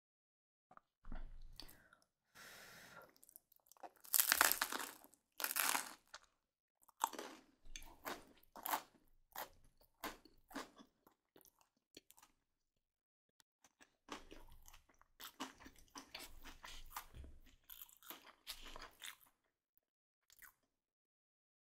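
Close-miked biting and chewing of crisp baked bread crust, with irregular crunches. The crunching is loudest about four to six seconds in, and softer chewing follows after a short pause in the middle.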